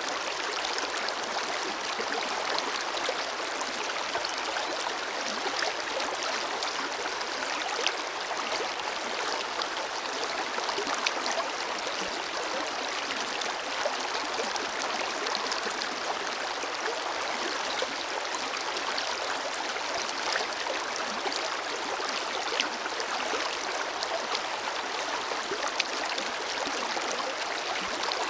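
Forest river flowing steadily: an even rush of water with small splashes and gurgles scattered through it.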